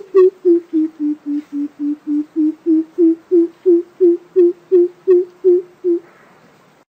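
Greater coucal calling: a long series of deep hoots, about three a second, dipping slightly in pitch and then rising again, stopping about six seconds in.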